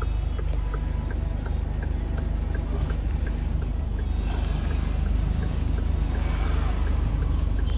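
Car engine running, heard from inside the cabin as a steady low drone, with faint regular ticks about twice a second.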